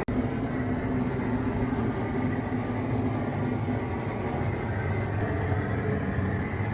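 A steady mechanical drone, like a motor running continuously, with low rumbling noise and a faint steady hum throughout.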